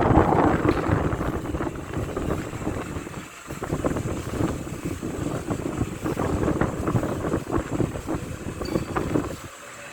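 Venti-Delta Premium 40 cm wall fan running, its air stream buffeting the microphone with a low, gusty rush that swells and dips, weakest about three and a half seconds in and near the end.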